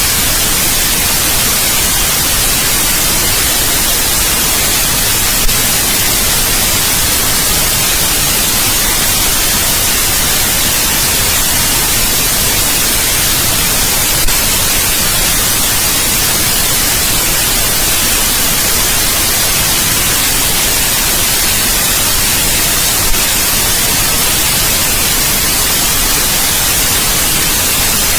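Steady electronic white noise, an even hiss that is strongest in the high treble, with three brief faint clicks about nine seconds apart.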